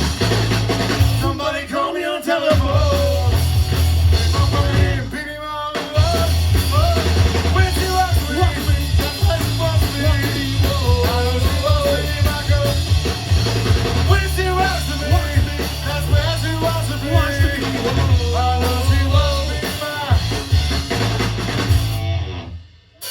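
Rock band playing, with drums, guitar, a steady bass line and singing; the music drops away briefly near the end.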